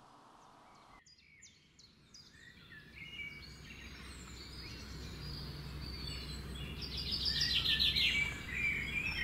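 Outdoor ambience of birds chirping, starting about a second in, with short scattered calls over a low steady hum; near the end, a quicker run of repeated chirps is the loudest part.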